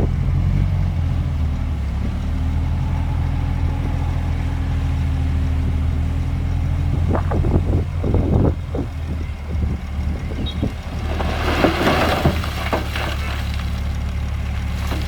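Heavy diesel engine of earthmoving machinery running steadily at a low, even pitch. About halfway through come several sharp knocks, then a few seconds of loud clattering and rattling.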